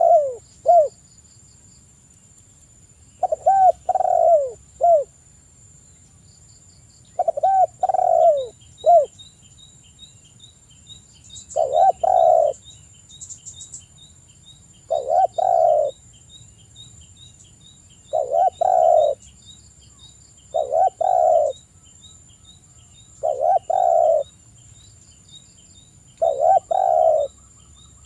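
Spotted dove cooing in repeated phrases about every three to four seconds. The first few coos glide and fall; from about twelve seconds in the phrases are denser. Behind them are a steady high-pitched whine and, from about ten seconds in, a faint quick ticking.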